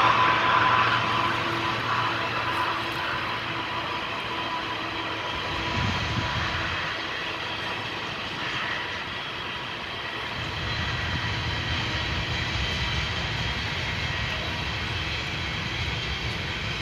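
Train rolling past with a steady rumble. A low throbbing comes in about six seconds in and again from about ten seconds.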